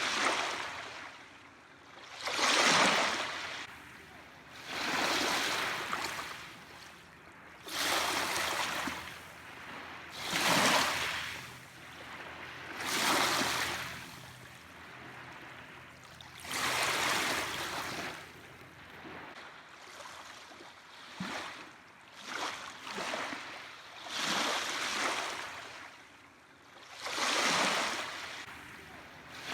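Small waves washing onto a shore, each one a rushing swell that rises and falls away, about every two to three seconds.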